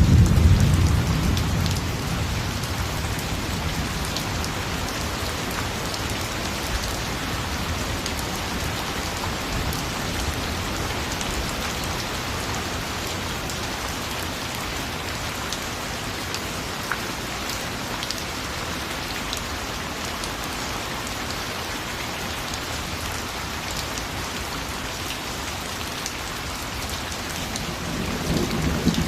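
Steady rain falling, with a dense patter of fine drop ticks. A low rumble of thunder fades out in the first second or so, and another rises near the end.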